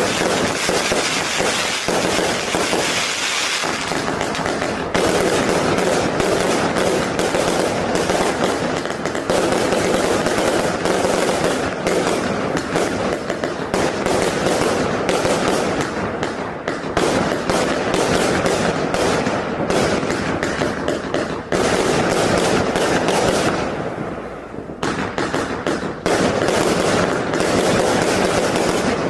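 A 258-shot 20mm compound firework cake firing: a dense, continuous run of shots and bursts, easing briefly about 24 seconds in before picking up again.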